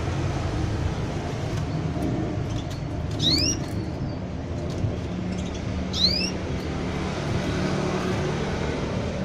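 Two short rising chirps from a canary, about three seconds apart, over a steady low rumble.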